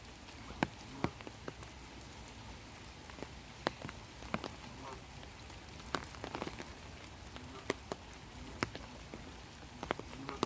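Steady light rain falling, with individual raindrops ticking irregularly close by over a soft hiss.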